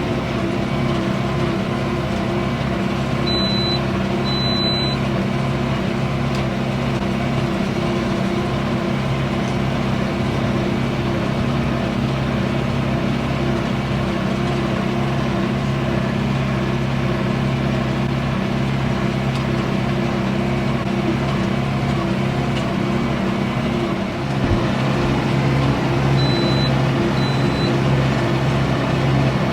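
Tractor engine running steadily under load while baling hay, a constant drone. Two pairs of short high beeps sound, one a few seconds in and one near the end.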